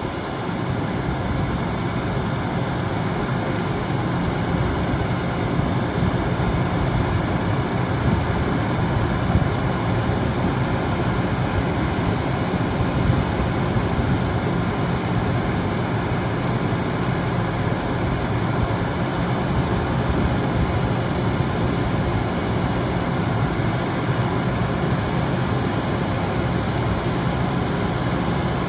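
International WorkStar 7300 bucket truck's diesel engine running steadily at high idle, held there by the hydraulic pressure switch while the boom's hydraulic functions are in use.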